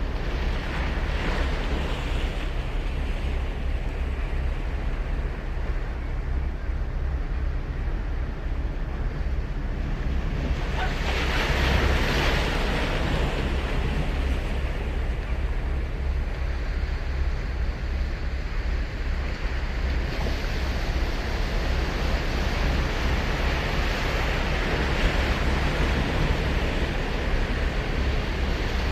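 Surf washing onto a sandy beach in a continuous hiss, with a bigger wave breaking about twelve seconds in and smaller swells near the start and later on. A low wind rumble on the microphone runs underneath.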